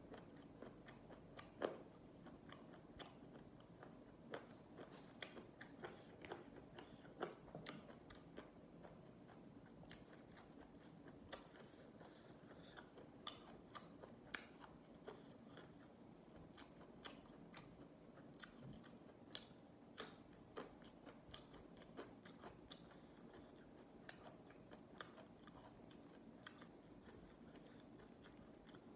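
Close-up chewing and biting of crisp raw vegetables: many irregular crunches and clicks over quiet mouth sounds, the sharpest about two seconds in.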